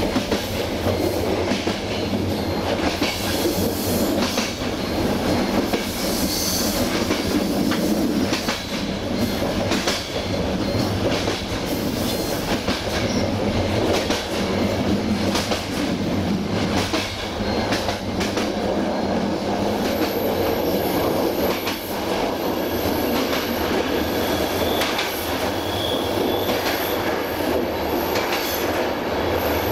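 Passenger train coaches running along jointed track: a steady rumble of wheels on rail with clickety-clack clicks as the wheels cross rail joints every second or two. A faint high whine joins in the second half.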